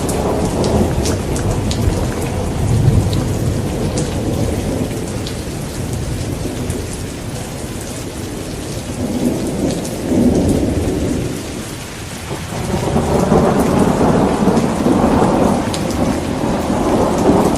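Thunder rolling in long, low rumbles over steady rain. The rumble dies down for a few seconds around the middle, and a new roll builds about two-thirds through.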